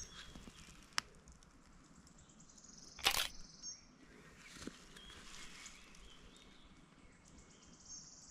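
Quiet woodland ambience with a small bird giving a high, fast trill twice. There is a sharp click about a second in and a short, louder crackling noise around three seconds in.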